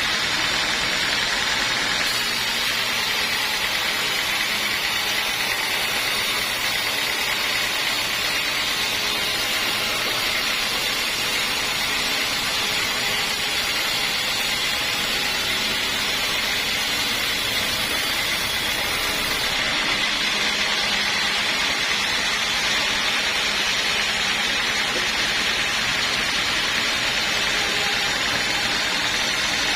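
Sawmill saw running steadily on teak, a constant mechanical noise. A thin high hiss joins about two seconds in and drops out about two-thirds of the way through.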